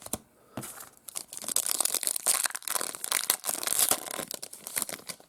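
Plastic wrapper of a trading-card pack being torn open and crumpled: dense, irregular crinkling and crackling from about half a second in that stops just before the end.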